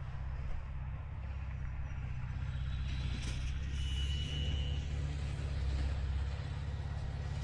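Volkswagen Vanagon engine idling steadily, with a brief high tone about four seconds in.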